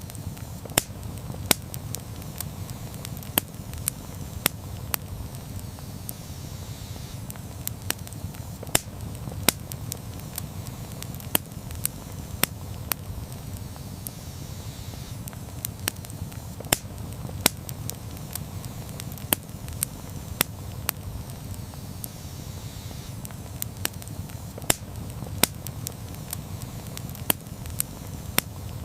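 Campfire burning, with sharp, irregular crackles and pops over a steady low rumble.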